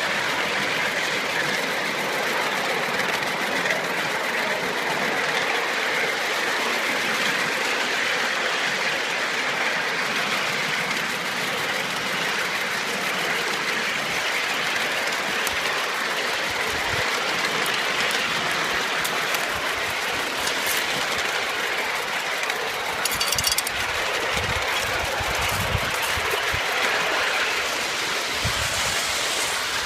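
Ride-on live steam locomotive and its train running on a miniature railway track: a steady rushing noise, with low thumps in the second half.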